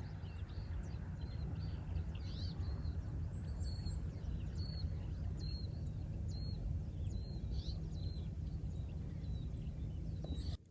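A small bird calling a steady run of short high chirps, roughly two a second, over a steady low outdoor rumble.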